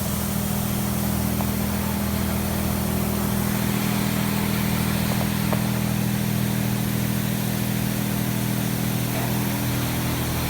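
Touchless car wash blower dryers running: a steady motor hum under an even rush of air.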